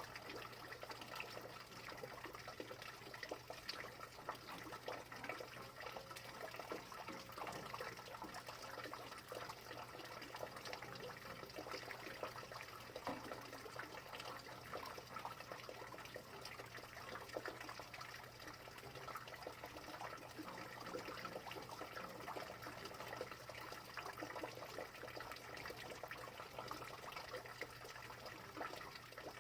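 Steady rain: an even hiss of falling water, dense with tiny ticks of individual drops, with a faint steady low hum underneath.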